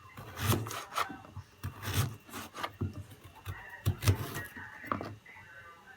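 Kitchen knife cutting through carrots against a board in a series of short, irregular strokes, each ending with a light thud.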